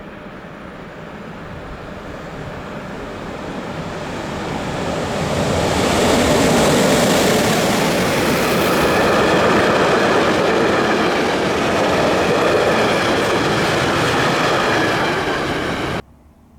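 Freight train hauled by an ÖBB Taurus electric locomotive passing through a station at speed. The sound grows louder for about six seconds as it approaches, stays loud and steady as the wagons roll past, and cuts off abruptly near the end.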